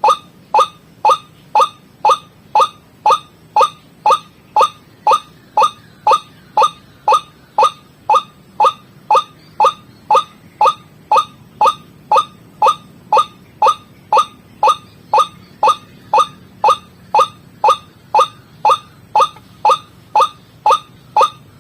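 White-breasted waterhen (ruak-ruak) calling, played as a bird-lure recording. A short note that slides down in pitch is repeated very evenly, about twice a second.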